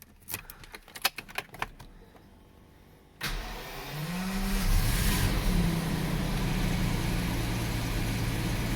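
A few light clicks, then the Jaguar XJ-S's V12 engine is started about three seconds in: a short burst of cranking, the revs rising as it catches, then settling into a steady idle. The engine has a misfire, mostly on one bank.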